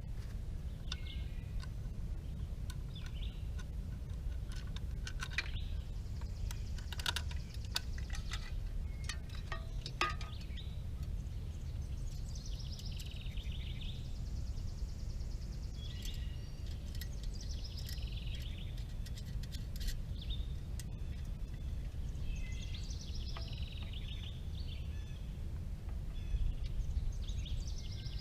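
Birds chirping on and off over a steady low outdoor rumble. A few sharp clicks and taps come about five to ten seconds in, as scooter fender parts are handled and fitted.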